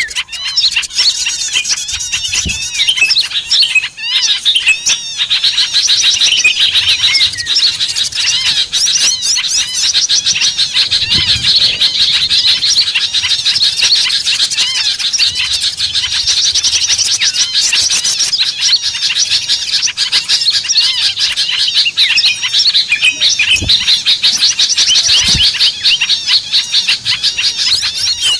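Dense chorus of many small songbirds chirping and twittering over one another without a break: a mixed small-bird calling track used as a lure to draw wild birds down.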